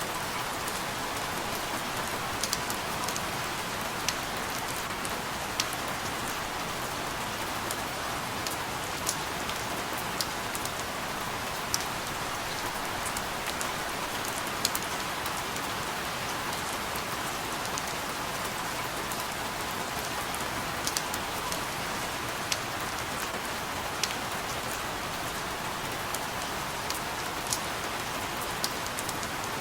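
Steady rain falling, a continuous hiss with scattered louder individual drops ticking every second or so.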